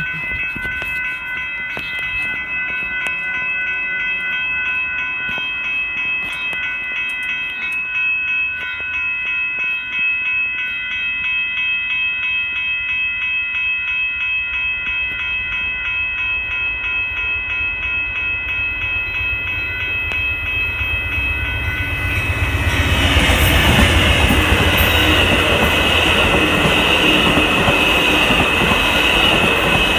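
Railroad crossing bells ringing steadily. About two-thirds of the way through, the Amtrak Texas Eagle passenger train reaches the crossing and passes, its rumble and clattering wheels louder than the bells.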